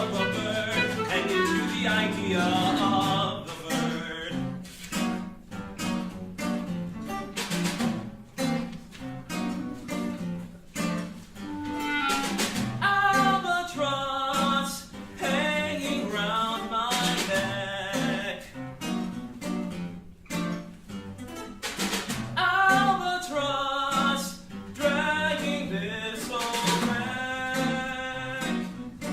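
Live ensemble music: wavering melodic lines over frequent sharp percussion strikes.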